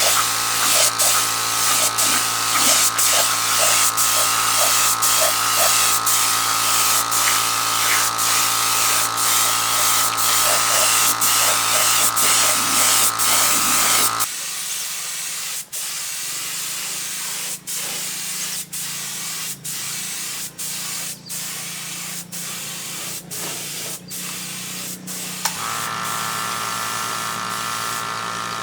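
Steady spraying hiss over a machine hum. It gives way about halfway through to a quieter sound with regular clicks about twice a second, and the hiss returns near the end.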